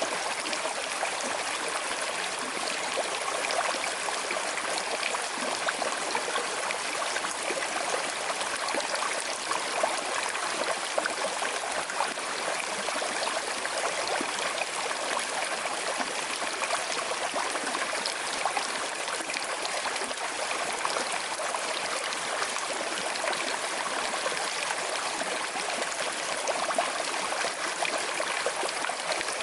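Small river with a slight current flowing steadily: an even, unbroken rush of running water.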